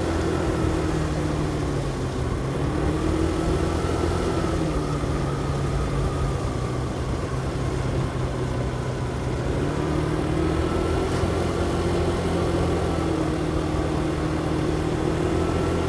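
Motorcycle engine running on the move, heard through a helmet-mounted microphone, its pitch dipping and rising gently as the engine speed changes.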